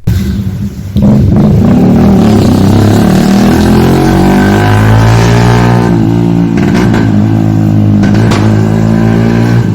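Motorcycle with a modified exhaust running very loud, coming up sharply about a second in and holding, its pitch dipping and rising a little midway.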